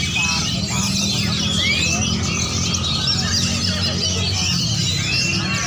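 Many oriental magpie-robins (kacer) singing at once in a songbird contest: dense, overlapping whistles, chirps and rapid trills, over a steady low background rumble.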